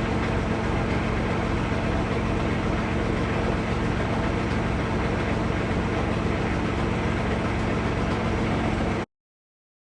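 Engine idling steadily with an even low hum, cutting off suddenly about nine seconds in.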